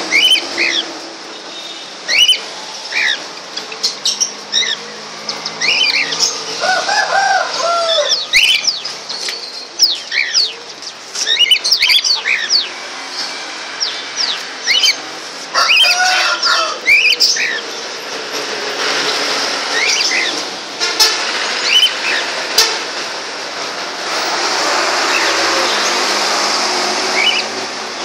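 Caged aviary birds, cockatiels among them, chirping busily in many short, quick high calls, with a lower, fuller call about a quarter of the way through and again just past the middle. Scattered sharp clicks, and a rushing noise near the end.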